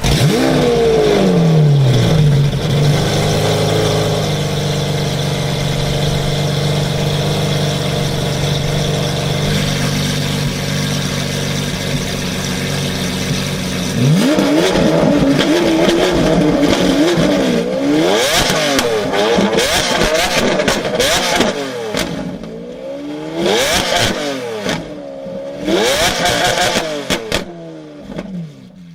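Sports car engine revs, falls back to a steady idle, and then about halfway through is blipped repeatedly, its pitch rising and falling with each rev.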